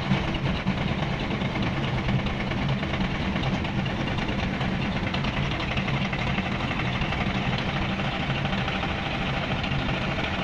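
A boat's engine running steadily in astern gear during a routine engine test, an even low hum.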